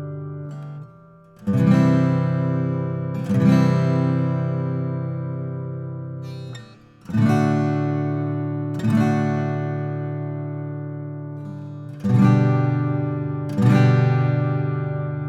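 Martin 00-15M all-mahogany acoustic guitar strummed: full chords struck in three pairs, the two strums of each pair about two seconds apart, each let ring and slowly die away. The strings are briefly damped before the first and second pairs.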